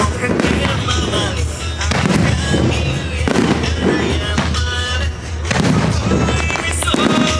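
Fireworks shells bursting again and again over loud accompanying music.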